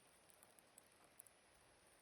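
Burning logs in a wood fire crackling faintly: a few small, sparse ticks over a low hiss, close to silence.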